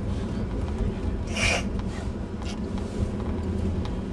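Steady low rumble of a vehicle driving through deep snow, with a brief hiss about a second and a half in.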